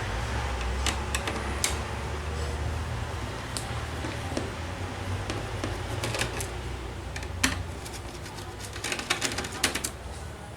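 Small scattered clicks and taps of a screwdriver and screws against a laptop's plastic case as screws are taken out, with a cluster of quicker clicks near the end. A steady low hum runs underneath.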